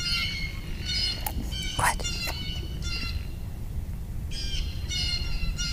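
Small birds chirping in the trees in several short bursts of high calls, the longest run near the end.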